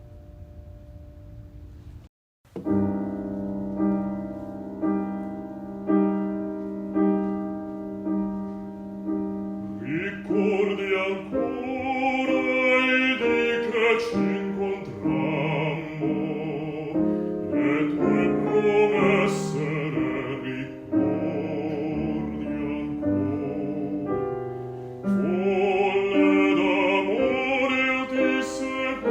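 Background music: a classical art song for bass voice and piano. After a short gap about two seconds in, the piano plays alone, and a bass voice with a wide vibrato comes in over it about ten seconds in.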